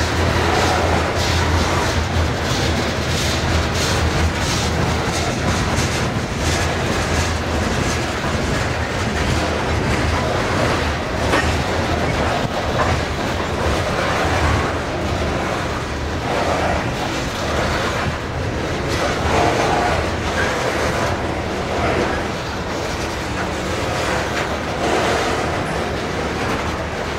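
Loaded covered hopper cars of a freight grain train rolling past, a steady rumble of wheels on rail with many repeated clacks.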